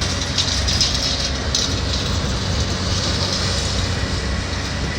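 Heavy demolition machinery working, heard as a steady diesel engine rumble with a loud, shifting high hiss over it.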